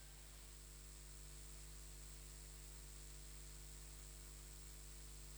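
Near silence with a faint, steady electrical hum and light hiss.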